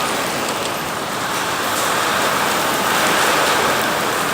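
Rain pouring down steadily, a dense hiss that grows a little louder about two seconds in.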